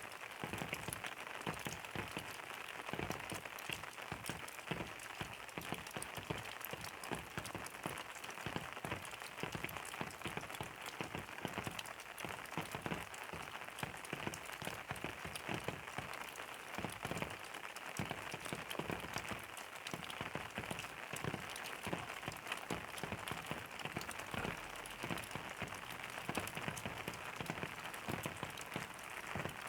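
Steady rain falling on a surface, a dense patter of many separate drops.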